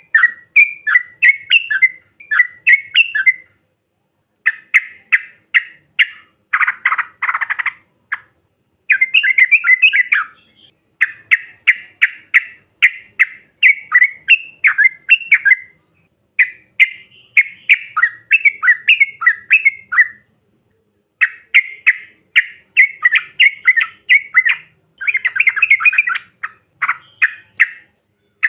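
Yellow-vented bulbul (trucukan) song: loud, bubbly chattering phrases of quick notes, each a second or two long, repeated with short pauses. One denser, harsher burst comes about seven seconds in.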